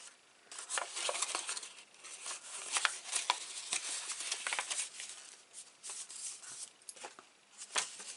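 Creased cardstock and patterned paper being flipped and refolded by hand: irregular rustling and crinkling with short sharp clicks and taps.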